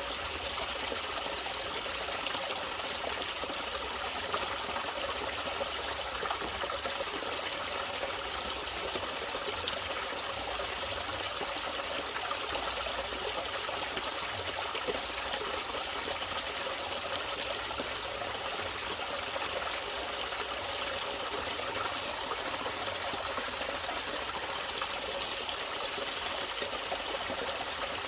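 Natural running water trickling and flowing steadily, with no pauses or changes.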